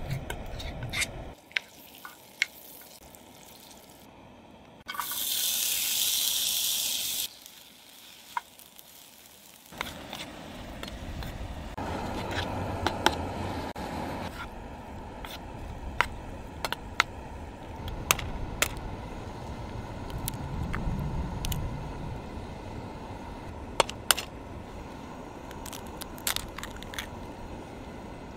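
Sausage, peppers and onions frying in a Jetboil skillet on a camp stove: steady sizzling with scattered sharp clicks and taps. A louder, hissier burst of sizzling about five seconds in lasts a couple of seconds.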